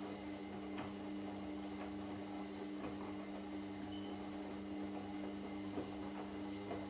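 Washing machine running: a steady motor hum with a few light, irregular knocks.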